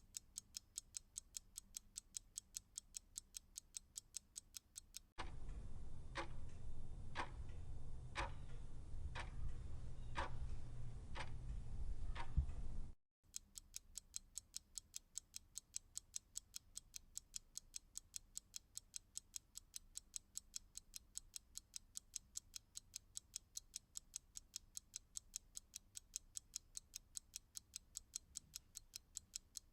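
Clock ticking quickly and evenly, about four ticks a second. About five seconds in, it cuts to a louder, slower clock ticking about once a second over a low rumble. That segment stops abruptly after about eight seconds, and the quick ticking returns.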